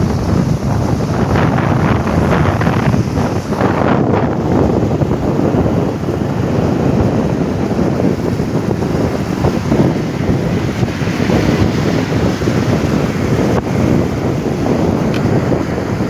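Loud, steady wind buffeting on the microphone of a moving motorbike, a constant low rushing noise with no breaks.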